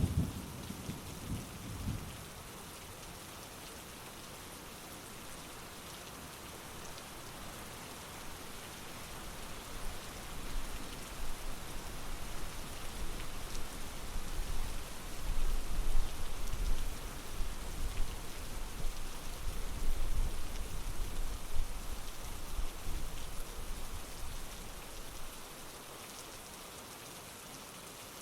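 Heavy rain falling steadily, with a long low roll of thunder that builds from about ten seconds in and fades away near the end. The tail of an earlier rumble dies out in the first two seconds.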